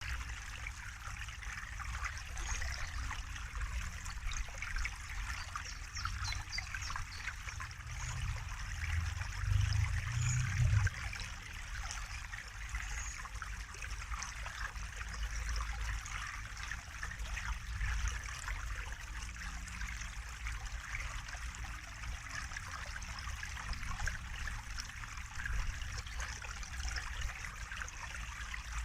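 Water trickling and splashing steadily, a continuous gentle babble. A low rumble swells briefly about a third of the way in.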